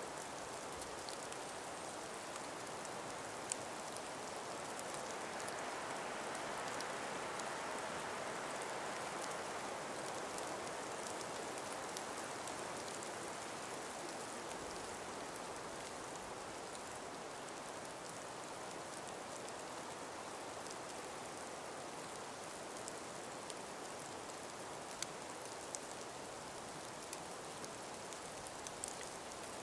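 Calm breeze through an ice- and snow-laden forest: a soft steady hiss that swells gently for a few seconds and eases off, with scattered light ticks, more of them near the end.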